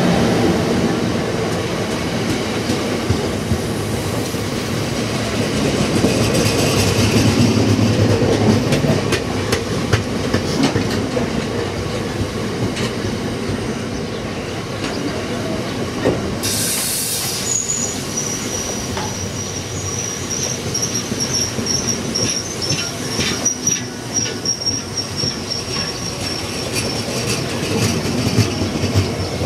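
Cement tank wagons of a freight train rolling past: steady wheel-on-rail rumble with the clickety-clack of wheelsets over rail joints. Just past halfway a brief hiss, then a high steady wheel squeal sets in and lasts to the end.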